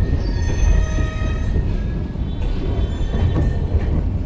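Passenger train carriage rumbling along, heard from inside the car, with thin high-pitched squealing coming and going twice.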